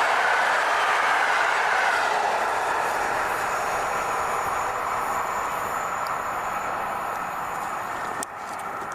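Passenger train hauled by an EP07 electric locomotive rolling past on the rails, a steady rumble of wheels that slowly fades as the train draws away. The level drops suddenly a little after eight seconds in.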